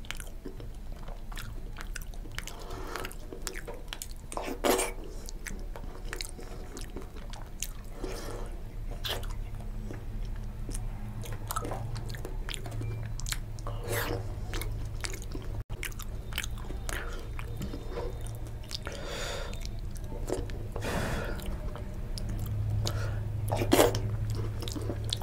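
Close-miked eating sounds: a person chewing soft khichuri and fried fish with irregular wet mouth smacks, a couple of them sharper, and fingers squishing the rice and greens on the plate.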